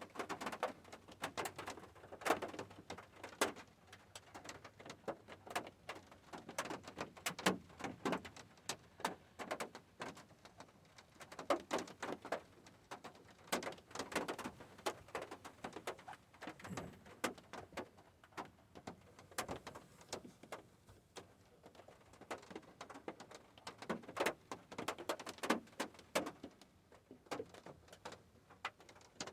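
Rain falling, heard as many irregular drops tapping on a hard surface, coming in denser clusters and thinner spells.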